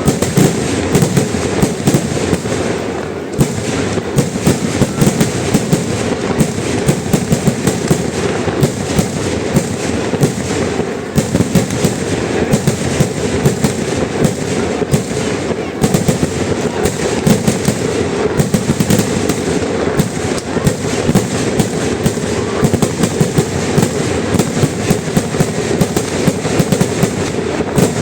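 Fireworks finale: a continuous barrage of rapid, densely overlapping firecracker bangs and explosions, with no pause.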